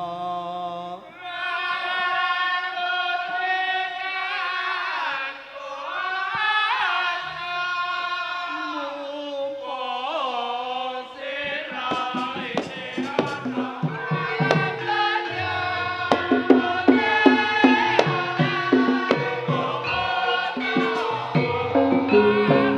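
Javanese gamelan opening piece: a solo voice sings a long, gliding melodic introduction. About halfway through, drum strokes and struck gamelan percussion come in with a steady low tone under the singing.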